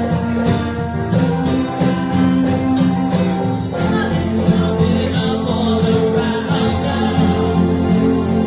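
A small group performing a song on guitar, with singing joining in about halfway through.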